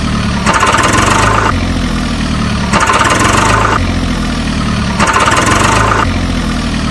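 A truck engine sound effect running in a repeating loop. A low engine rumble alternates with about a second of higher, rattly buzzing, three times.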